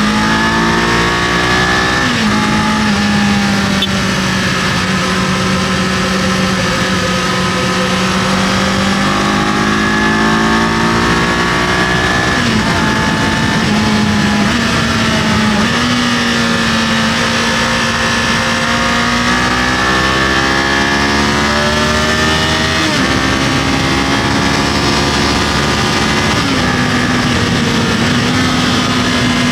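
Kawasaki KLE500's parallel-twin engine running under way, its pitch climbing and falling with the throttle and shifting abruptly several times at gear changes, over a steady rush of wind and road noise.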